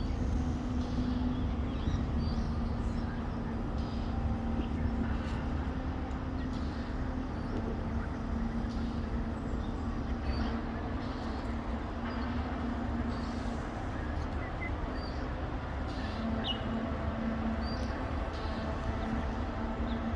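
Steady low hum of urban traffic or machinery with a droning tone, and faint, scattered high bird chirps.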